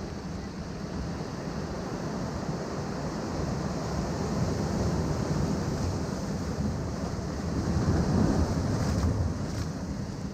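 Ocean waves breaking among rocks below a cliff. The surf swells to its loudest about eight seconds in, then eases.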